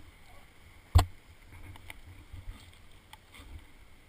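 Dirt bike being hoisted upright by its tire: one sharp knock about a second in, over a low rumble.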